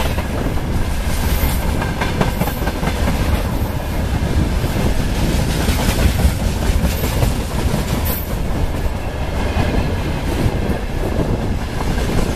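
Open gondola wagons of a freight train passing close by at speed. The wheels rumble and clack steadily on the rails, with a few sharper metallic knocks.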